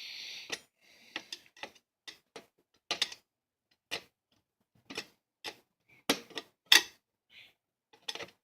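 Irregular sharp clicks and scrapes of a tool tip catching and slipping in the head of a tight screw as it is turned out of a plastic box fan's lid.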